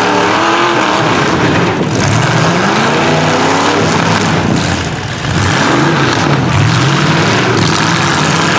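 Demolition derby trucks, vans and SUVs running their engines hard, the engine pitch climbing and falling again and again as the drivers rev to ram one another, over a steady din of engine noise.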